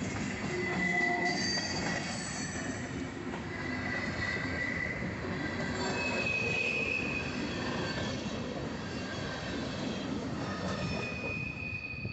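Freight train cars rolling past at a grade crossing, a steady rumble of wheels on the rails with thin high squealing tones from the wheels.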